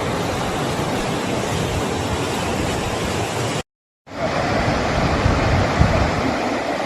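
Floodwater rushing down a wadi, a steady roar of water. It cuts out for about half a second a little over halfway through, then comes back.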